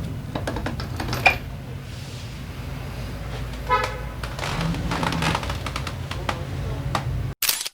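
Scattered metal clicks and knocks of hand tools on engine parts during a scooter engine teardown, over a steady low hum. A brief pitched tone sounds about halfway through, and the sound cuts off suddenly near the end.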